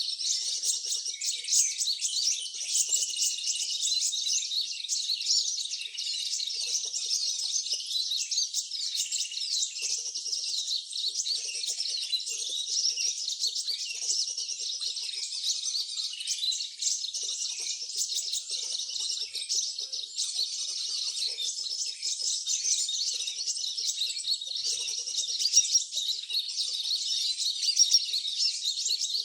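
Many small birds chirping and twittering at once, a dense, continuous, high-pitched chorus of short overlapping calls.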